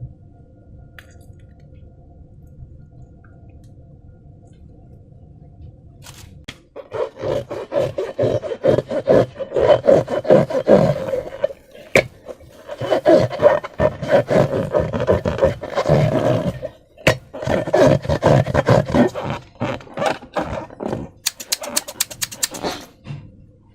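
Slime and balloon rubber being squeezed and worked by hand: long runs of wet squelching and rubbery creaking in uneven bursts. They start about seven seconds in, after several seconds of quiet background, and end in a quick patter of fine clicks.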